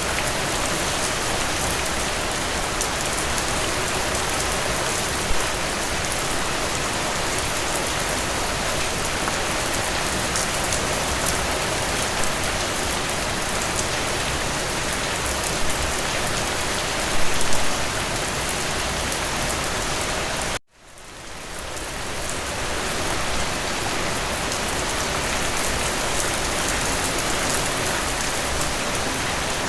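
Steady rain falling, a dense patter of drops with a few louder single hits. About twenty seconds in the sound cuts out abruptly and fades back in over about two seconds.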